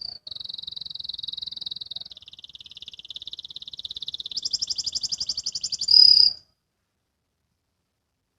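Domestic canary singing fast trills: runs of rapidly repeated notes that switch to a new phrase twice. The song grows louder and ends on a short, loud high note about six seconds in, then stops.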